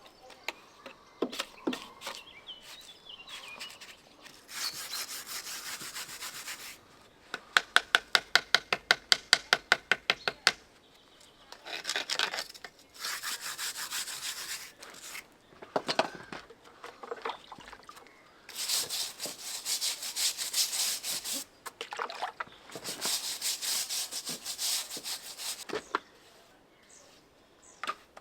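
Hand-tool work on a wall: several spells of scraping and rubbing strokes, each lasting one to three seconds, and, about seven seconds in, a fast even run of sharp strokes at about six a second lasting some three seconds.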